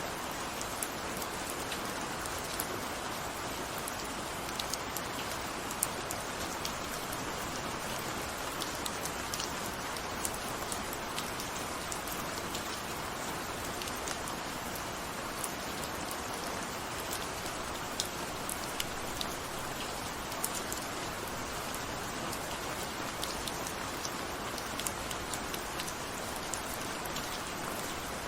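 Steady rain falling, an even hiss with many scattered individual drops ticking on a surface.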